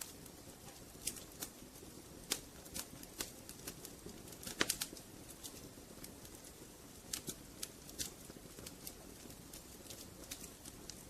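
Burning firewood crackling: irregular sharp pops and snaps over a steady low rush of the fire, with the loudest cluster of pops about four and a half seconds in.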